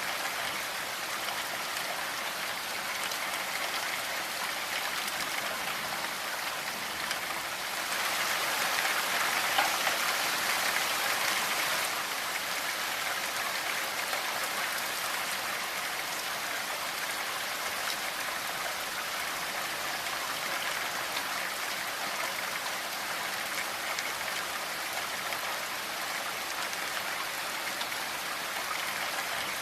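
Steady rainfall with fine patter of drops on a surface, swelling a little heavier for a few seconds about a third of the way in.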